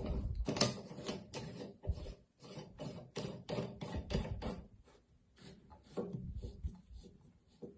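Bushing of a Delta single-handle bathtub faucet being screwed back onto the valve body by hand: a run of short scraping rubs, about three a second, growing fainter after about five seconds.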